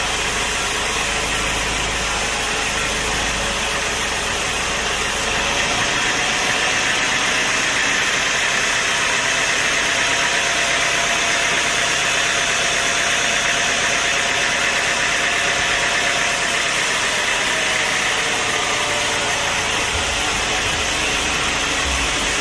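Machinery running steadily with a hiss. It grows louder and brighter from about six seconds in and eases back near eighteen seconds.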